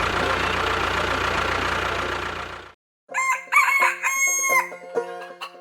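Steady engine-like running noise fades out, and after a short silence a rooster crows, its long call starting about three seconds in.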